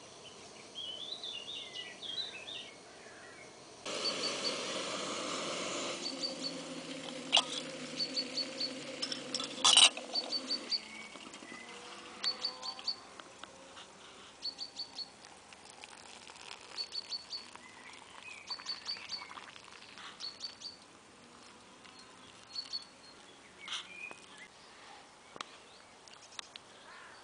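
A small bird calling over and over in short, high chirps in threes. About four seconds in, water is poured from a stainless steel camping kettle into an enamel mug for several seconds, with two sharp clinks, then stops suddenly.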